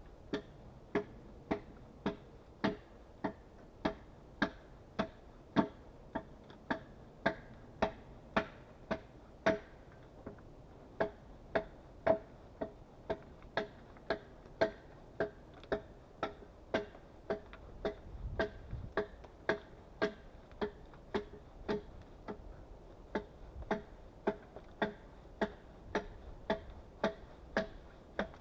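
Steady, evenly paced blows of a hand tool on wood, a little under two a second with a few brief pauses, each knock with a short hollow ring.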